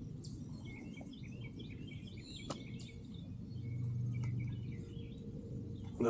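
Songbirds chirping, a string of short chirps, over a steady low rumble that swells about three and a half seconds in. A single sharp click about two and a half seconds in.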